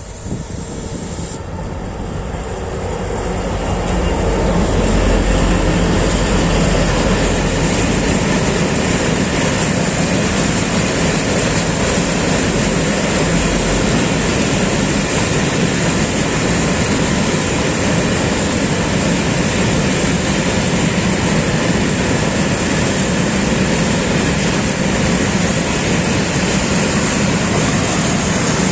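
Renfe class 335 (Vossloh Euro 4000) diesel locomotive hauling a train of empty coil-carrier wagons past on the track. It grows louder over the first few seconds, then the rumble of the engine and wheels on the rails holds steady and loud.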